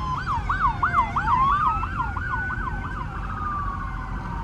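Police sirens sounding together: a slow rising and falling wail, overlapped for about three seconds by a fast yelp that sweeps up and down about three times a second. The police are running them to clear a car meet.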